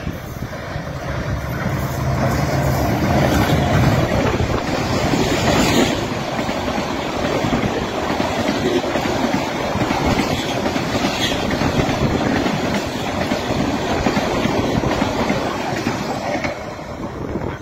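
Diesel-hauled express train running through a station at speed. The locomotive's engine swells and goes by in the first few seconds, then a long rake of coaches rushes and clatters past on the rails.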